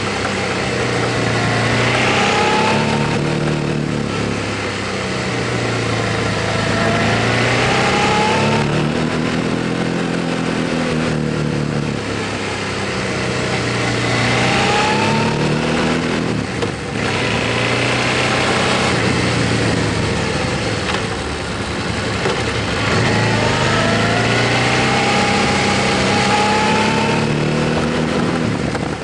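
Motorcycle engine running under way, its note climbing and falling again several times as the bike accelerates and changes gear, over a steady rush of wind and road noise.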